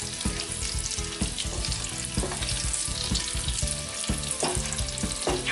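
Chopped garlic sizzling as it fries in hot oil in a pan.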